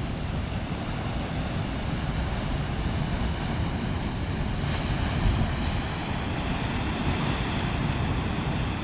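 Big sea waves rolling in and breaking, a steady rushing that swells a little from about five seconds in, with wind buffeting the microphone.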